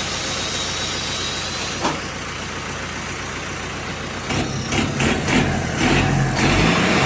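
Modified turbocharged diesel tractor engine running. About four seconds in it gets louder, with a heavier, uneven low throb.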